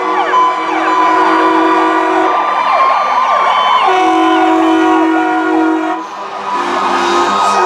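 Several fire-truck sirens wailing and yelping at once, overlapping, with long blasts of fire-truck air horns sounding over them about three times.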